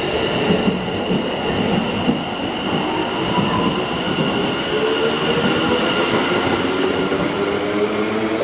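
Train moving through a station, with a steady high whine and, from about halfway, a lower whine that rises in pitch as the train picks up speed.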